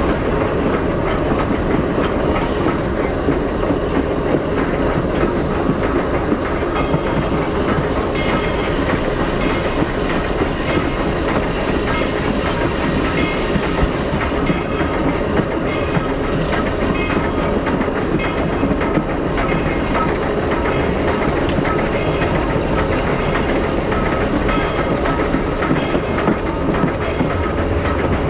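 Steady rolling rumble and clickety-clack of a passenger train's wheels on the rails, heard from an open observation car.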